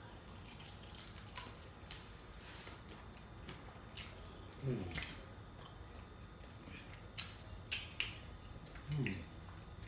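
Two people eating Hot Cheeto-crusted fried chicken wings: faint chewing with scattered sharp clicks and crunches, and two short falling hums, about five seconds in and again near the end.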